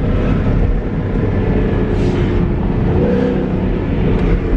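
Ford Mustang GT (S550) 5.0 V8 with a new aftermarket exhaust setup on stock mufflers, running loud and steady while driving.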